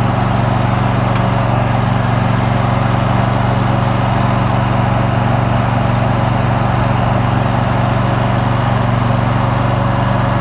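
Riding lawn mower's engine running steadily as the mower is driven along a street, a constant drone with no change in speed.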